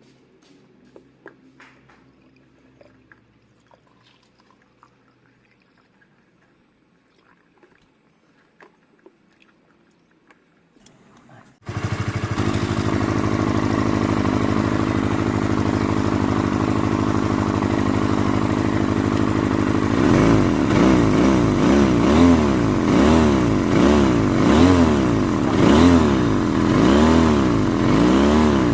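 Freshly assembled Honda CB150R single-cylinder 150 cc engine, after faint ticks, starts up suddenly about a third of the way in and runs steadily, then is revved in short throttle blips about once a second: its first run after the rebuild.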